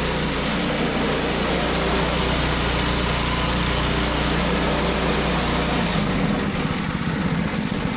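Newly installed small gasoline engine on a portable sawmill running steadily; a bit under six seconds in its low, even hum drops away and the running turns more uneven.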